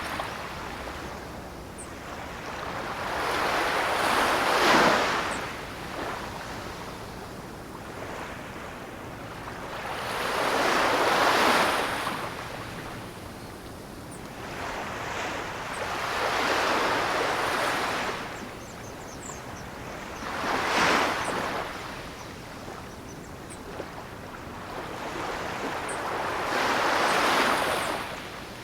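Ocean waves breaking, about five of them in turn, each swelling to a peak of hiss and wash and then fading, roughly every five to six seconds.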